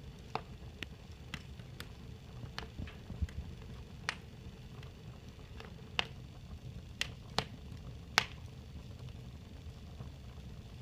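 Fire crackling: a dozen or so irregular sharp pops and snaps over a low steady rumble, the loudest pop a little past the middle.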